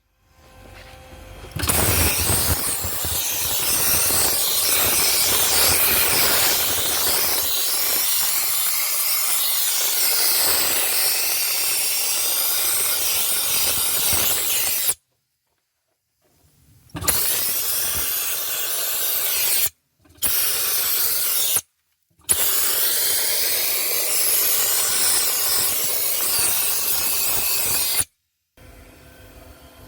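Dry ice blaster's nozzle blasting an engine bay: a loud, steady hiss of compressed air and ice pellets that stops and restarts several times, cutting off abruptly each time.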